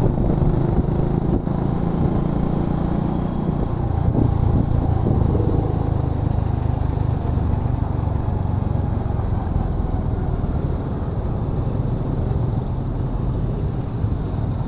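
Honda Win 100 motorcycle engine running steadily while riding, its pitch dropping slightly about three seconds in, with a steady rushing hiss over it.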